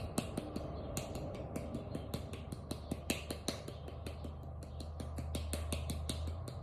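Wooden spoon paddling a hollow clay form: rapid, uneven light taps, several a second, as the clay is beaten to shape the body and smooth out pinch marks.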